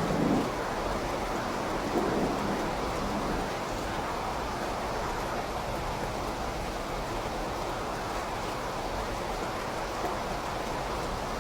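Steady rain falling, an even hiss, with two brief low thumps: one at the very start and one about two seconds in.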